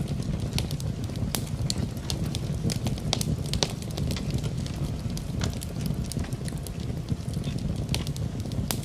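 Wood fire in a fireplace crackling, with many sharp irregular pops over a steady low rumble, mixed with a steady hiss of falling rain.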